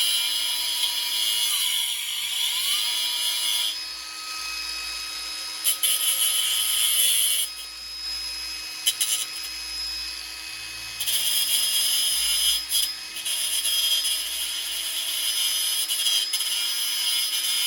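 Small electric grinder spinning with a steady high whine that winds down and spins back up about two seconds in, its wheel biting in repeated bursts of harsh grinding noise as a mounting tab is ground away so the new carburettor fits. The grinder runs down near the end.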